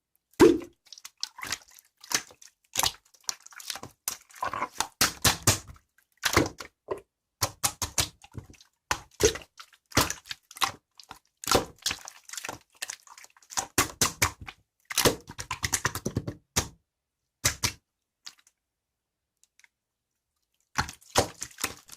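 Irregular clicks and knocks of typing on a computer keyboard, breaking off into a few seconds of quiet near the end before a few more key presses.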